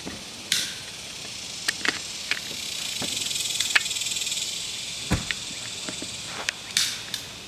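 Steady high insect buzzing that swells up in the middle and fades again, with scattered clicks and knocks from handling close to the microphone.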